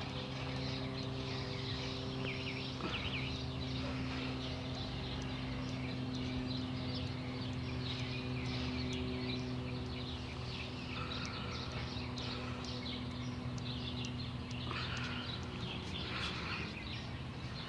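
Birds chirping, with many short calls scattered through, over a steady low hum.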